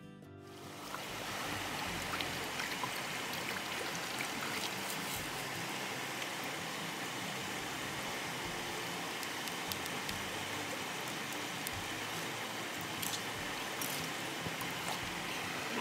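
Steady rush of a flowing river, rising in over the first second or so, with a few faint small clicks over it.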